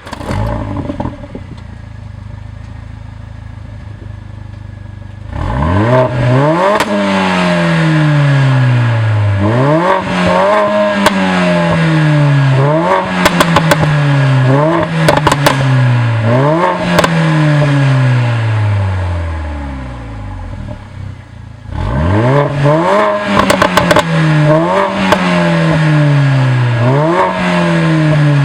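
Mercedes-AMG GLA45's turbocharged 2.0-litre four-cylinder firing up with a burst and holding a steady fast idle, cold start. From about five seconds in it is revved over and over, each rev rising sharply and falling away with pops and crackles from the performance exhaust. It drops back briefly near twenty seconds, then the revs start again.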